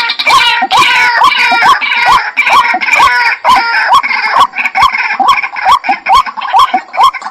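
White-breasted waterhen calling, a rough call repeated over and over with no break, about two to three notes a second, each note rising in pitch.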